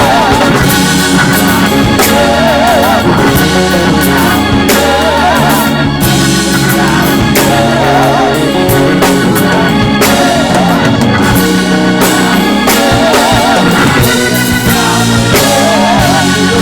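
Gospel church band playing an instrumental stretch: a Hammond-style organ leads with wavering, vibrato-laden lines over drums with regular sharp hits and a steady bass.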